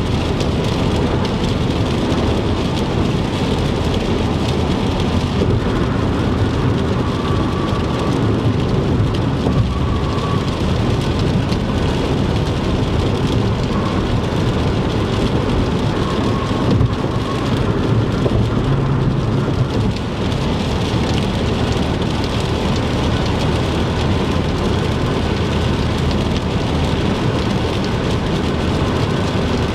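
Rain on a moving car mixed with tyre and road noise on a wet interstate, a steady dense hiss with a low rumble underneath.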